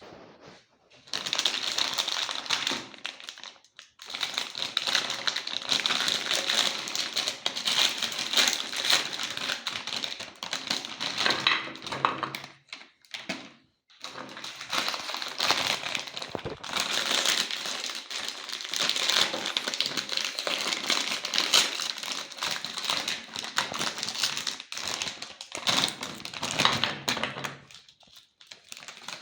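Meat grinder crunching and crackling through hard cookies in long runs, with brief pauses about four seconds in, around twelve to fourteen seconds, and near the end.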